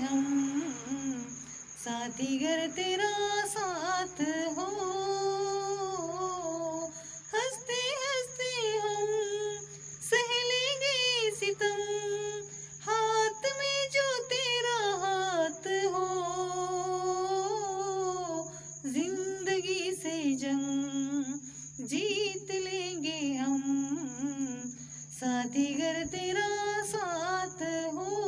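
A woman singing a Hindi film melody solo, humming or vocalising it with no words picked out, in phrases of long held notes that slide and waver. A faint steady high whine runs beneath the voice.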